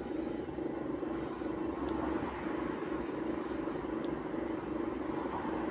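Stagecoach London bus 12277, parked with its engine off, giving off a steady whirring drone at one held pitch: the odd noise that these buses make once the engine and electrics are switched off, which the speaker wonders may be the batteries acting up.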